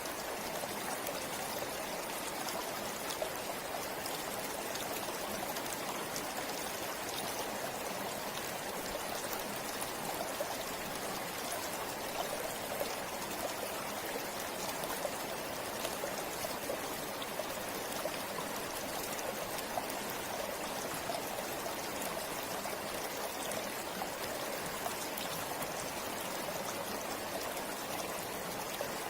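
Forest river flowing over stones: steady rushing and babbling water with many small splashes and drips.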